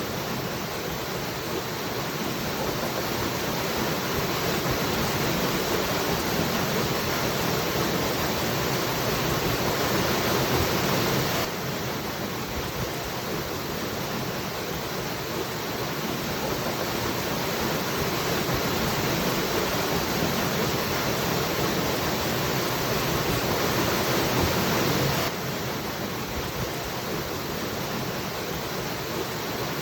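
Waterfall: a steady rush of falling water. Its level drops suddenly twice, about 11 seconds in and about 25 seconds in, then slowly swells again.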